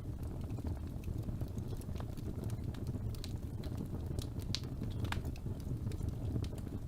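Birch logs burning in a fireplace: a steady low rumble of flame with scattered sharp crackles and pops, a few louder snaps around the middle.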